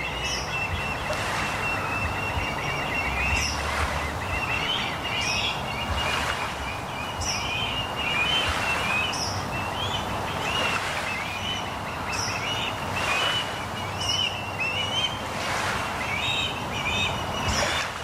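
Ospreys calling at the nest: a steady run of short, high whistled chirps, repeated every second or so.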